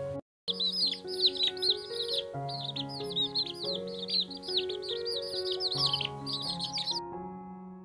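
Many small birds chirping at once, a dense run of quick, overlapping high peeps, over soft keyboard music. The chirping begins after a brief silent gap at the start and stops about a second before the end, leaving only the music.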